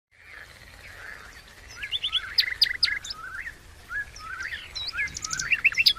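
Several songbirds chirping and singing, with many short rising notes and quick runs of notes overlapping one another.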